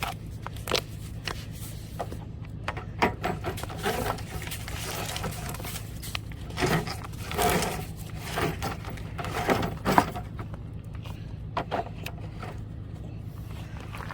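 Scattered knocks, clicks and scraping handling sounds, busiest in the middle, over a steady low hum.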